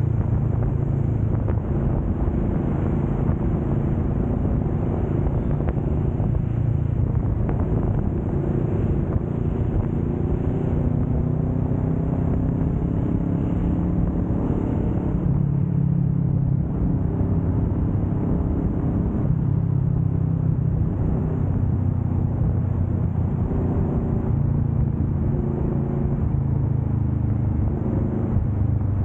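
Kawasaki Vulcan S 650's parallel-twin engine running steadily at highway speed, its pitch shifting slightly now and then with the throttle.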